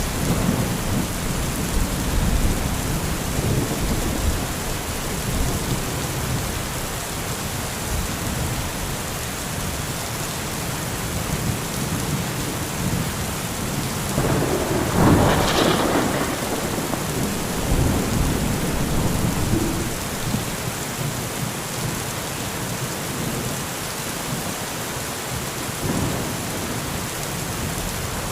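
Heavy rain falling steadily, with thunder rumbling low through it. About halfway through a louder peal of thunder rises and rolls for a couple of seconds, and a smaller rumble comes near the end.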